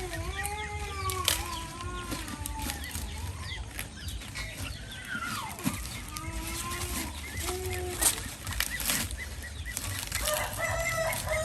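Rooster crowing, one long call in the first two seconds or so, followed by shorter chicken calls and clucks, with a few sharp knocks scattered through.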